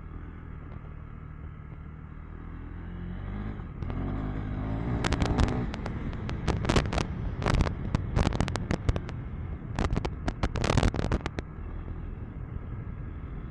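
KTM 390 Enduro R's single-cylinder engine running on the move, its revs climbing about four seconds in. For the next six seconds or so, a rapid series of sharp cracks and knocks sits over the engine sound.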